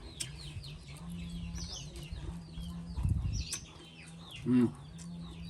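Birds chirping rapidly: many short, high, falling chirps over a steady low hum. About four and a half seconds in there is one louder, lower call.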